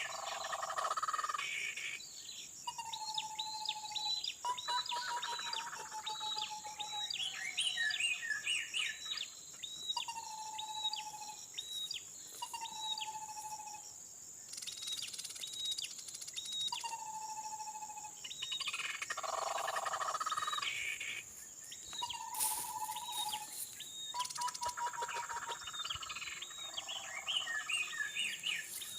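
Tepus babbler calls: a short clear whistled note repeated every two to three seconds, with quick runs of high chirps in between. A steady high insect drone runs underneath.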